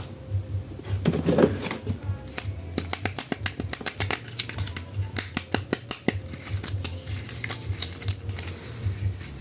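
Rapid, irregular sharp clicks and snaps of plastic action figures and their packaging being handled, with a brief louder rustle about a second in.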